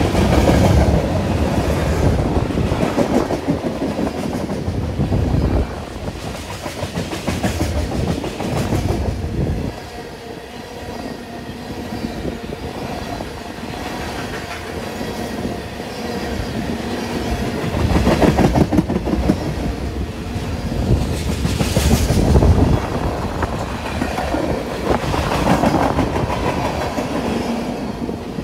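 BNSF freight train of tank cars, a lumber-loaded centerbeam flatcar and boxcars rolling past close by: steady rumble with the wheels clattering over the rail joints, easing a little for a few seconds in the middle and then swelling louder again.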